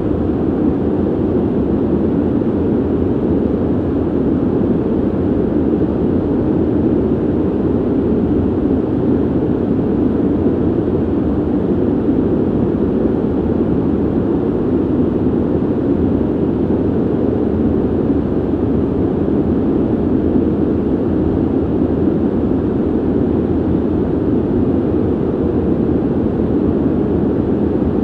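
Steady ventilation noise: an even, deep, muffled rush with no tones, clicks or changes.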